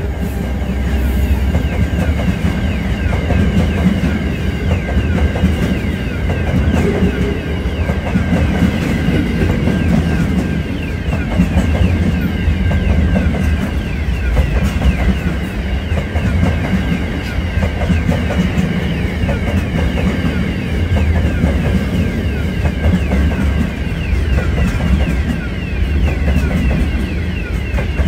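Freight train of hopper wagons passing close by at speed: a steady, heavy rumble with a dense, fast clatter of wheels over the rails and a faint high metallic ringing above it.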